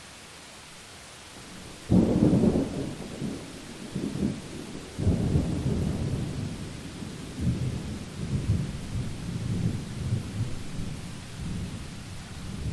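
Thunder in a rainstorm: a steady hiss of rain, then a sudden loud thunderclap about two seconds in, a second crack about three seconds later, and deep rolling rumbles coming in waves after it.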